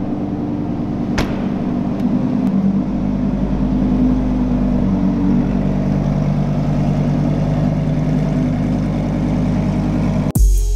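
Lamborghini Huracán's 5.2-litre V10 idling steadily, with one sharp click about a second in. Music cuts in just before the end.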